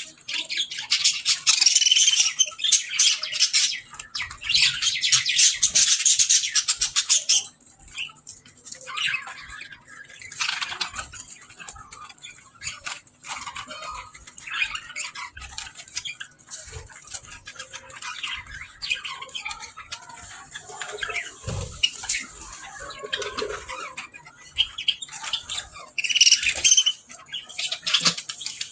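Two male budgerigars chattering and warbling: loud, rapid, dense chatter for the first several seconds, then quieter scattered chirps, with another loud burst of chatter near the end.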